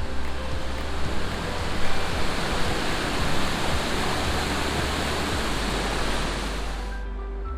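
Steady rush of a small waterfall pouring down to the sea, with soft background music underneath. The water sound cuts off suddenly near the end, leaving only the music.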